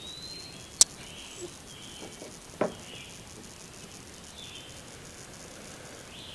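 Faint, scattered high-pitched chirping in the background, with a sharp click about a second in and a short knock about two and a half seconds in.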